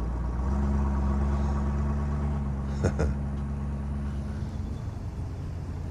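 A car engine running at a steady speed, fading out near the end, with two sharp clicks close together about three seconds in.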